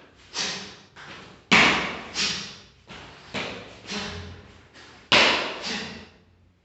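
A series of about ten sharp impact sounds from a kung fu wood-element demonstration, two-handed strikes driven together like hitting a tree trunk. They come at roughly two per second, each dying away quickly, with the hardest hits about one and a half and five seconds in.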